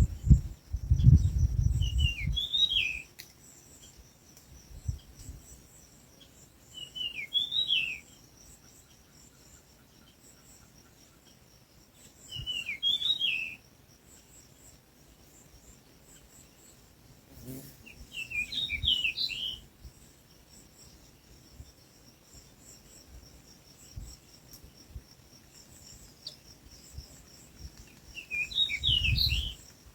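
A bird calling five times, each call a short burst of quick notes about a second long, spaced roughly five seconds apart. A steady high insect chirring runs underneath.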